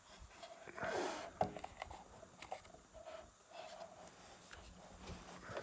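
Faint handling sounds: a soft rustle about a second in, then scattered light clicks and knocks.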